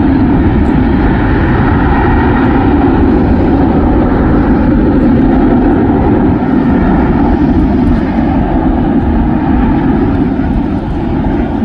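Jet airliner engines, a loud, steady rushing roar of an airliner passing close by.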